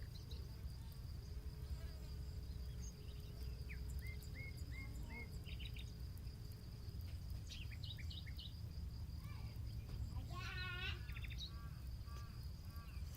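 Birds chirping and calling in short repeated phrases over a steady high-pitched insect drone, typical of crickets, with a low steady rumble underneath. About ten and a half seconds in there is one brief wavering call.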